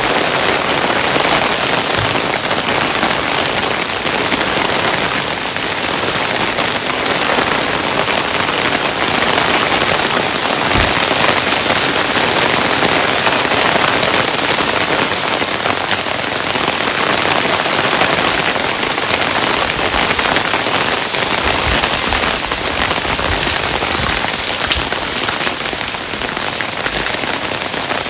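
Hailstones falling and pattering on a surface in a dense, steady stream, with an occasional heavier low thud.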